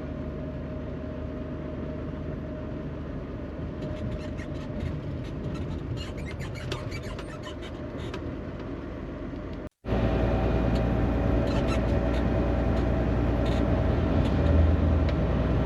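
Steady engine and road rumble inside a moving semi-truck's cab. About ten seconds in the sound cuts out for a moment, then returns louder and deeper.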